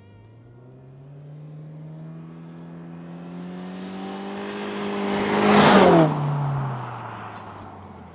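2024 Subaru Impreza RS, 2.5-litre flat-four with an aftermarket quad-tip axle-back exhaust, driving past. The engine note builds as the car approaches and is loudest about five and a half seconds in. It then drops in pitch and fades as the car goes away.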